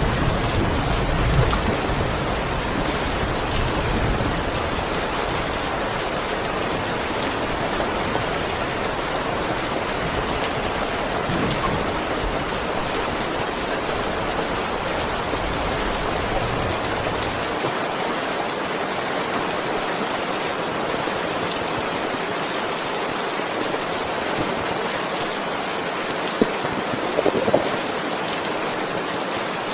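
Heavy rain falling steadily, a dense even hiss of rain on surfaces. A low rumble underneath dies away a little past halfway.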